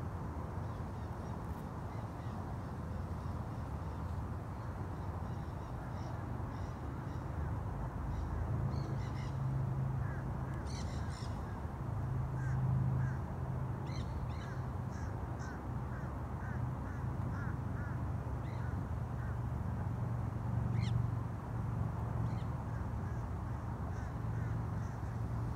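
Birds calling outdoors, a scatter of short, high calls over a steady low rumble.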